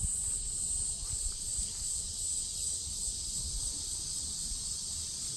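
Cicadas calling in a steady chorus, a continuous high buzz that does not let up, over a low rumble.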